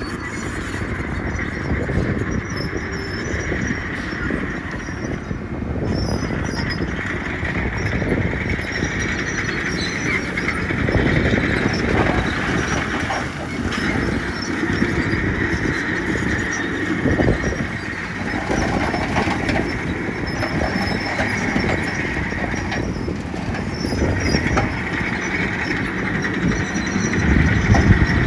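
Komatsu crawler bulldozer's diesel engine running steadily while it works, with a steady high squeal over the engine noise.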